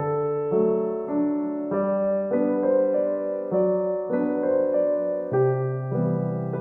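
Background music: slow piano chords and melody, notes changing roughly every half second to a second.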